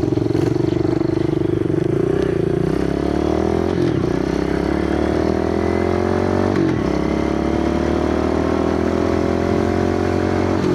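Kawasaki KLX110 pit bike's small four-stroke single-cylinder engine pulling away and accelerating through the gears: the pitch rises steadily, drops at a gear change about four seconds in, rises again, and drops at a second change about two-thirds of the way through.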